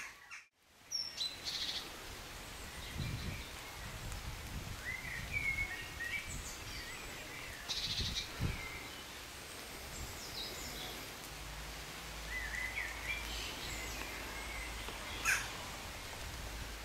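Songbirds singing and chirping in short scattered phrases over steady outdoor background hiss, with a low rumble at times.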